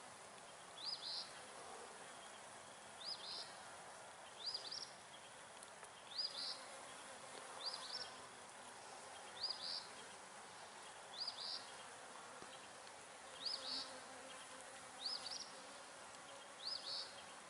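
Honey bees humming at a hive entrance. Over it, a loud, short, high chirp of two or three quick notes repeats evenly about every 1.7 seconds, ten times.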